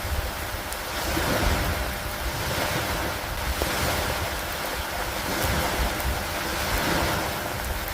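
Steady rainfall, a dense even hiss with a low rumble beneath, swelling and easing gently every few seconds, with a few faint ticks of drops.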